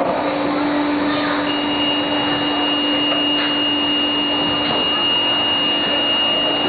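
Refrigerator door foaming-line machinery running steadily: a constant mechanical hum with a low steady tone, joined about a second and a half in by a thin high steady tone that holds on.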